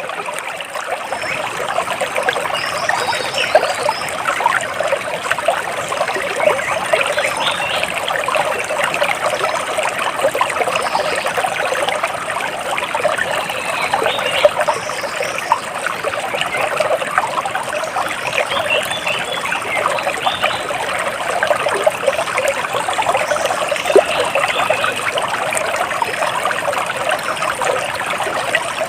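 Water splashing and trickling steadily, like a small stream or cascade, with a few faint, short bird chirps now and then.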